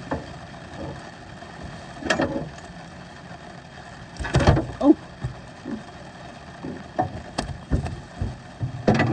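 Irregular knocks and thumps on a fishing boat over a steady background hiss, the loudest cluster about four seconds in and several more in the second half.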